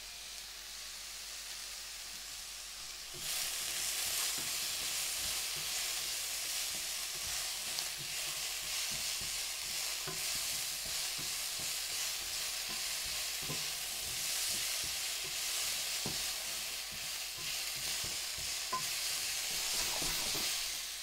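Diced Hokkaido pumpkin with onion and garlic sizzling in olive oil in a frying pan, while a spatula stirs the pieces and scrapes the pan. The sizzle gets louder about three seconds in, as the stirring starts.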